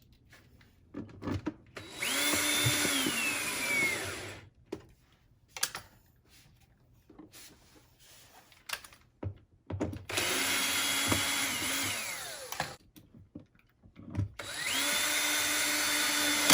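Power drill run in three bursts of about two seconds each, its motor pitch steady and then dropping near the end of each burst.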